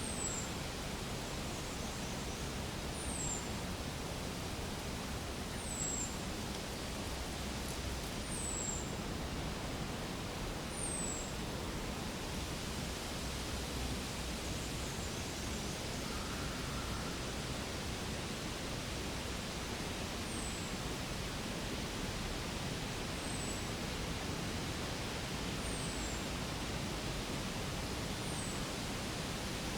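Steady outdoor background noise, an even rushing hiss, with a short, high, downward chirp repeating about every two to three seconds.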